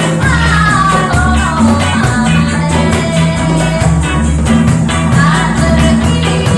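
Band music with a singing voice over a steady bass line and regular beat.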